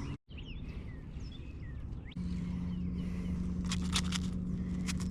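Small birds chirping. About two seconds in, a steady electric hum starts, typical of a boat's trolling motor. Rapid runs of clicking come in bursts later on, as from a fishing reel being cranked.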